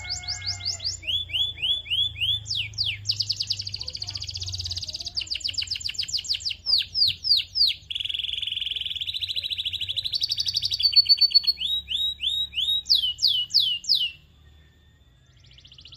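Canary singing: long, rapid trills of repeated notes and runs of quick down-slurred whistles, high-pitched. The song breaks off about fourteen seconds in.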